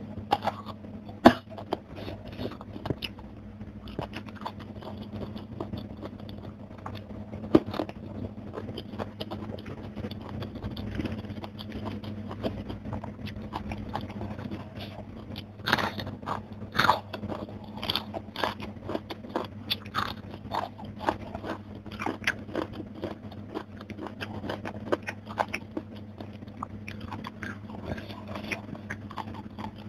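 Close-miked mouth sounds of eating: biting and crunching raw young green eggplant and crispy fried fish, with wet chewing between bites. There are sharp single crunches about a second in and again near eight seconds, then a busy run of crisp crunches from about halfway through.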